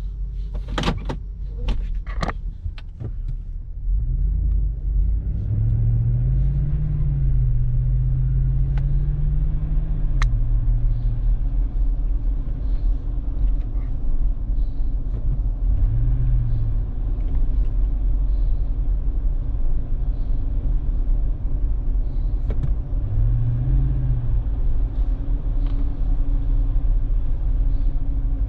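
Lexus GX460's 4.6-litre V8 through a Magnaflow aftermarket exhaust, heard from inside the cabin with the windows up: a deep steady rumble that climbs in pitch about five seconds in, holds, then falls back, with two shorter rises and falls later. A few sharp clicks come in the first three seconds before the engine note builds.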